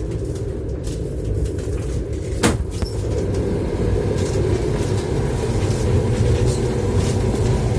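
Passenger train running, heard from the vestibule between carriages: a steady low rumble of wheels and running gear, with one sharp knock about two and a half seconds in.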